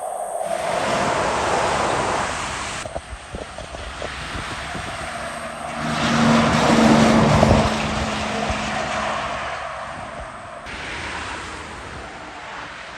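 Road traffic passing close by: vehicles drive past, the loudest a heavy truck whose engine note and tyre noise swell to a peak about six to seven seconds in and then fade.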